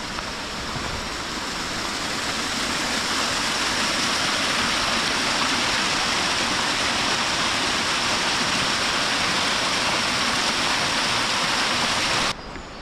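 Rushing water of a cascading mountain river, a loud steady hiss that builds over the first few seconds and cuts off suddenly near the end.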